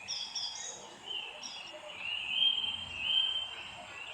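Songbirds singing: a run of short, clear whistled notes stepping between pitches near the start, then longer held whistles, loudest around the middle, over a faint steady background hiss.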